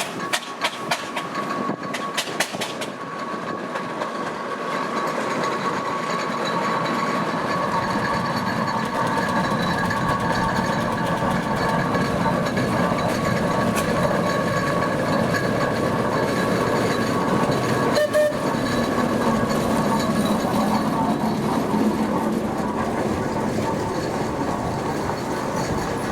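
Steam traction engine running on the road, its chuffing and clattering motion growing louder over the first several seconds and then running on steadily, with a steady high tone over it.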